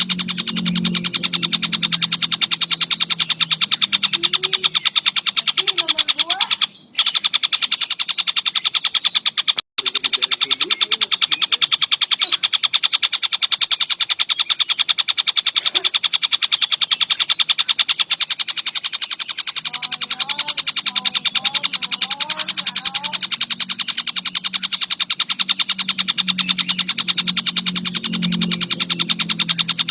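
Tengkek buto kingfisher calling nonstop: a high, very fast, even trill that runs on without pause, cut only by two brief gaps about 7 and 10 seconds in. A low hum sits under it at the start and the end.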